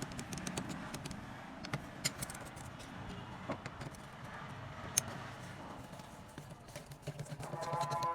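Irregular sharp taps and clicks of hand work on starter motor parts over a low background murmur; music comes in near the end.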